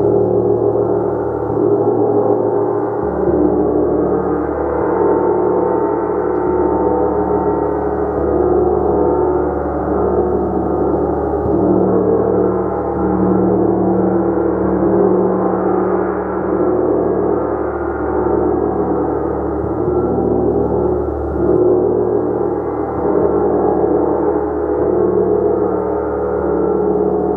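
Gong played continuously: a dense, sustained wash of many overlapping ringing tones that swells and ebbs every couple of seconds as it is kept sounding.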